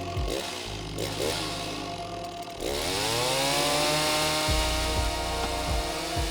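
Stihl MS 260 two-stroke chainsaw running at low revs, then throttled up about two and a half seconds in, its pitch rising and holding at a steady high-speed run.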